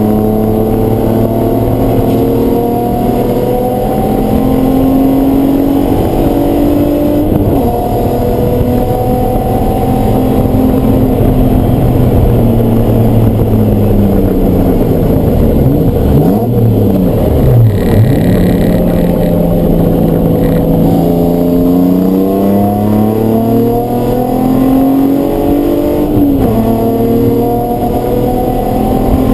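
Race car engine at speed on track: it revs up and shifts up, then its pitch falls as the car slows for a corner about halfway through, with quick blips on the downshifts. It then pulls hard again and shifts up twice near the end.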